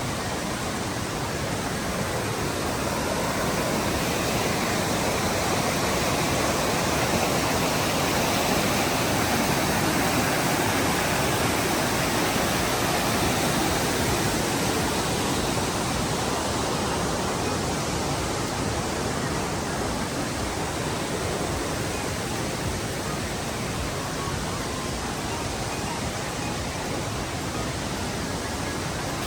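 Steady rush of a large waterfall pouring, swelling a little midway and then easing back.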